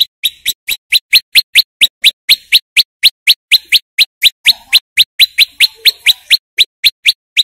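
Prenjak lumut (male) singing a rapid, loud series of sharp, rising chirps, about four to five a second, starting abruptly and running unbroken.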